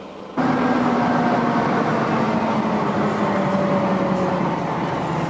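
Heavy truck engine running loud and steady under load, its pitch sinking slowly; it comes in abruptly about half a second in.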